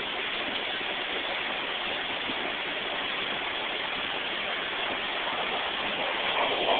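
Toronto subway train running, heard from inside the car as a steady, even rush of wheel and track noise.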